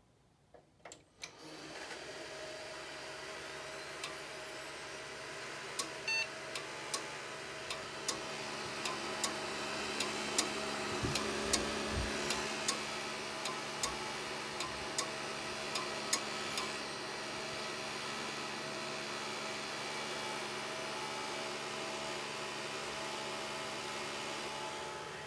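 Desktop PC running with a steady hum, its hard disk drive making a string of sharp clicks about once every half second to a second for some twelve seconds, then falling silent while the hum goes on. The hum starts about a second or two in. The clicking is the weird noise suspected as a sign of trouble in the HDD.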